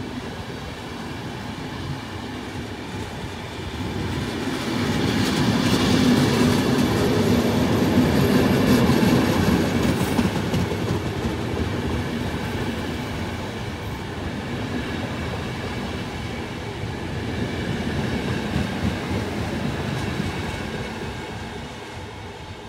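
InterCity Notte passenger coaches rolling past along the rails. The train noise builds to its loudest about six to ten seconds in, swells again later, then fades as the train draws away.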